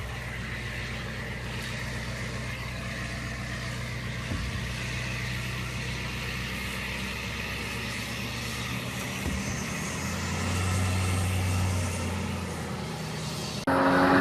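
Diesel truck engine running steadily, growing louder about ten seconds in, with a brief loud pitched burst just before the end.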